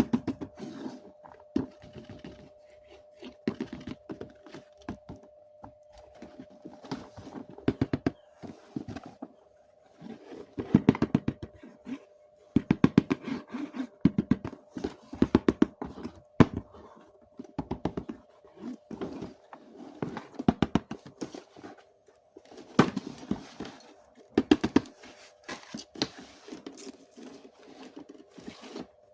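Hands handling plastic toys and packaging: bursts of clicks, knocks and taps, some in quick rattling runs, over a faint steady hum.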